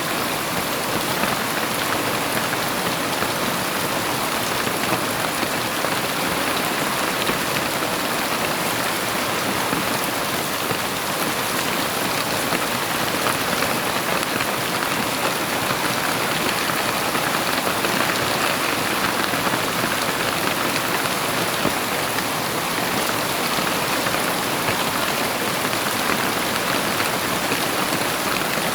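Heavy rain falling steadily, a dense, even patter on surfaces that neither builds nor fades.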